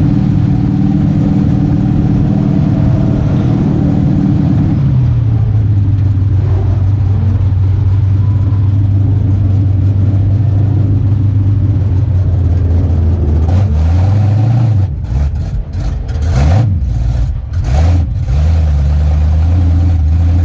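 V8 engine of a pure stock dirt-track race car running steadily, then dropping to a lower engine speed about a quarter of the way in and holding there. Several short throttle blips rise and fall about three-quarters of the way through.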